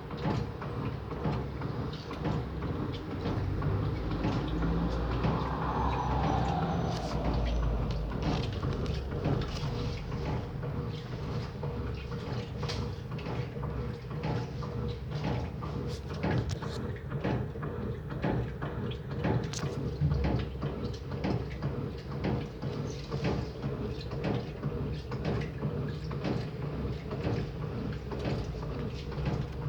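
Electrolux Turbo LT09B 8 kg top-loading washing machine running a wash cycle: a steady motor hum with a quick, continuous series of knocks and clatters, and a falling whine about five seconds in.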